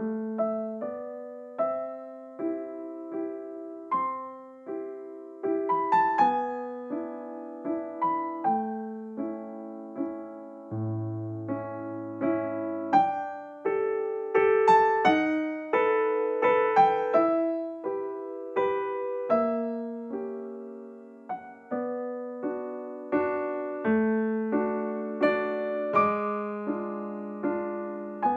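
Background piano music: a gentle melody over soft chords, each note struck and fading.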